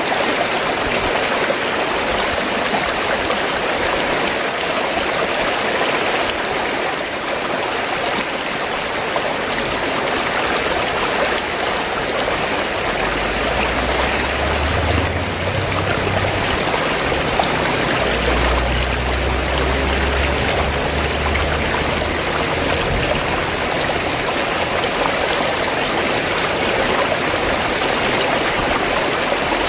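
Fast-flowing stream water rushing and gurgling in a steady, unbroken wash. A low rumble joins it for several seconds in the middle.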